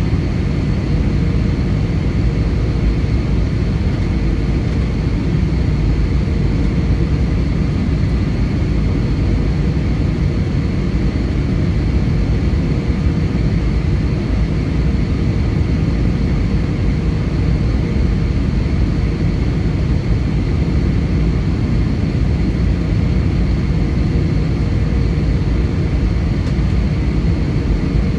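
Steady cabin noise inside an Airbus A320 airliner: an even, loud rush of engine and air noise with a faint steady hum running through it.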